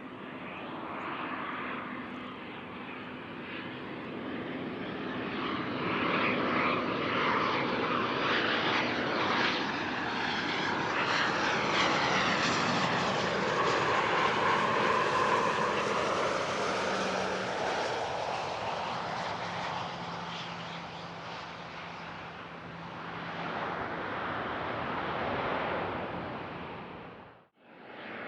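Gulfstream G550 business jet's twin Rolls-Royce BR710 turbofans going by on the runway. The jet noise swells to its loudest in the middle, with a whine sliding in pitch, then fades away. The sound cuts off abruptly near the end.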